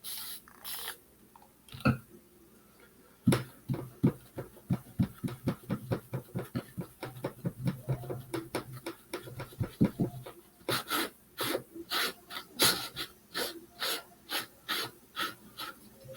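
Paintbrush dabbing and scrubbing paint onto a wooden birdhouse in quick, rhythmic strokes, about three to four a second. The strokes turn crisper and scratchier about eleven seconds in.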